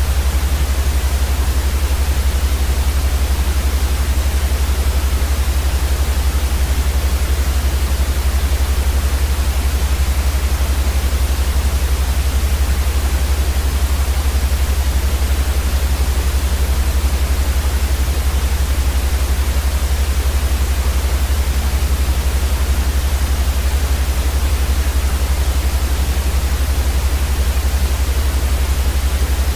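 Steady, unchanging synthetic white noise: an even hiss across the whole range over a stronger deep rumble underneath.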